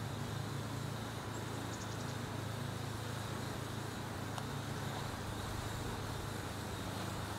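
Steady outdoor background noise: a constant low hum under an even hiss, with no clear bird calls.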